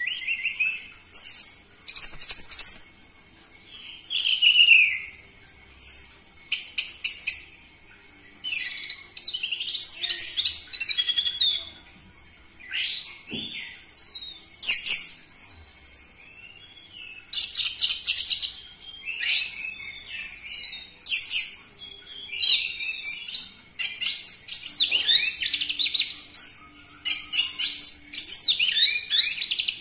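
Orange-headed thrush (anis merah) singing loudly. It gives varied bursts of high, arching whistled notes and fast trills and chatter, with short pauses between phrases.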